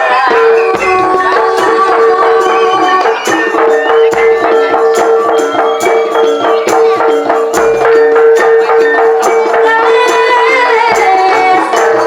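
Live jaranan music from a Javanese ensemble: a steady held note runs underneath a wavering melody, with frequent rattling percussion strikes.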